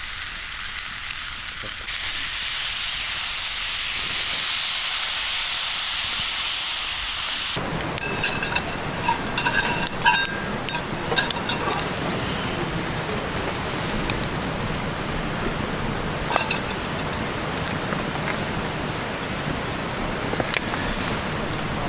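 Food sizzling in a hot pan, a steady hiss that grows louder about two seconds in. After a change partway through, the sizzle carries many sharp clicks and short metallic taps.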